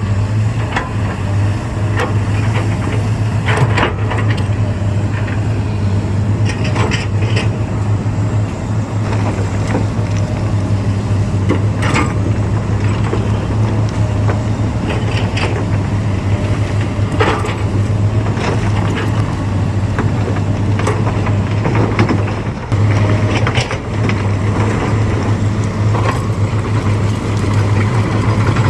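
Heavy diesel earthmoving machinery running steadily with a deep, even hum, with scattered knocks and clanks throughout and a brief dip about 22 seconds in.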